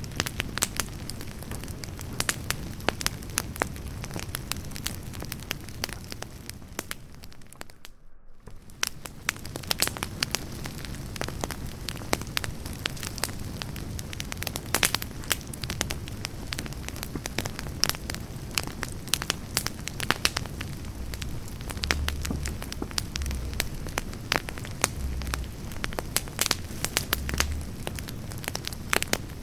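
Firewood campfire burning, crackling with frequent sharp pops and snaps over a steady hiss. The sound drops away briefly about eight seconds in.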